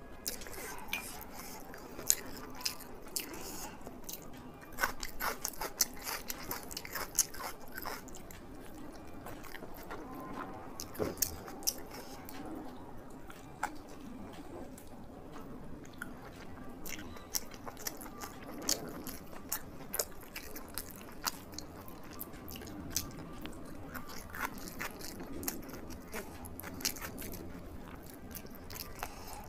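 A person eating close to the microphone: steady chewing and biting, with many small sharp crunches and wet mouth clicks coming irregularly.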